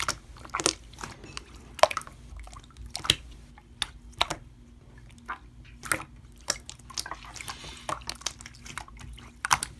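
Slime being squeezed and poked by hand: irregular wet, sticky pops and clicks, about one or two a second.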